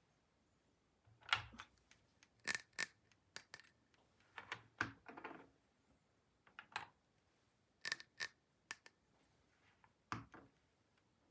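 Small hard plastic pieces being handled, giving a string of separate short clicks, taps and little clatters with pauses between them.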